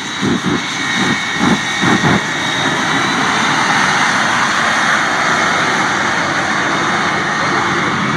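Shockwave triple-jet-engine truck running at full power, a loud steady jet noise that slowly builds, with a few short bangs in the first two seconds.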